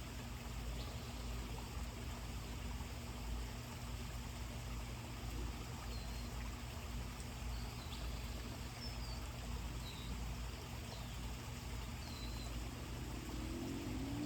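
Outdoor ambience: a steady hiss with a low hum beneath, and from about a third of the way in, a run of short, high bird chirps, about one a second. Near the end a low, rising sound begins.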